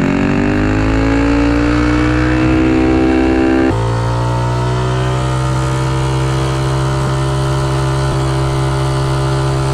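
Predator 212 single-cylinder engine on a minibike running hard, its pitch climbing as it accelerates. After an abrupt cut about four seconds in, it holds a steady high rev.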